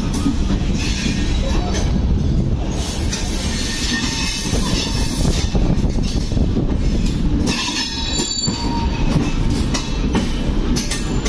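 Indian Railways BOXNHL open freight wagons rolling past close by: a steady, loud rumble of steel wheels on rail, with brief high-pitched wheel squeals now and then.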